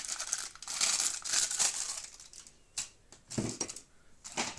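Packaging crinkling and rustling as a vacuum cleaner's accessories are unwrapped and handled, followed by a few light knocks.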